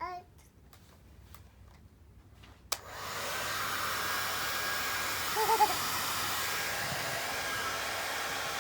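A hair dryer switched on with a click almost three seconds in, then blowing steadily. A short falling vocal squeal at the very start, and a brief warbling vocal sound over the dryer about halfway through.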